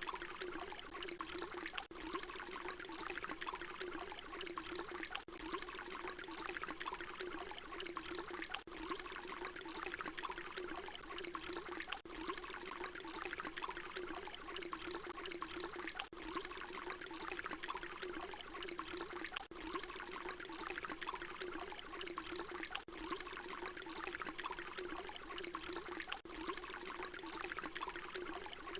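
Water pouring in a steady stream, splashing and trickling. It is a short recording looped, with a brief dip in the sound roughly every three and a half seconds where the loop restarts.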